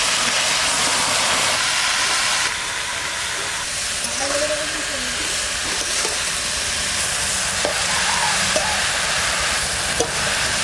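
Pumpkin leaves sizzling in hot oil in an iron kadai: a steady frying hiss that drops a little about two and a half seconds in, with a few light ticks of a metal spatula as the greens are stirred.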